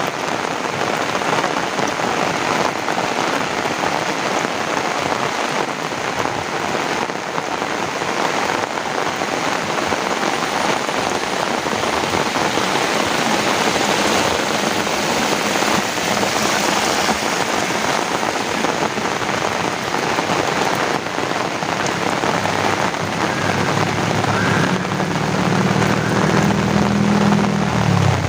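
Heavy rain falling steadily. Near the end, the low hum of a motor vehicle's engine comes in and grows louder as it approaches.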